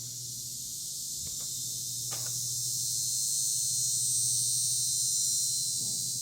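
Chorus of insects such as crickets, a dense high-pitched buzz that slowly swells and then eases off, over a steady low hum.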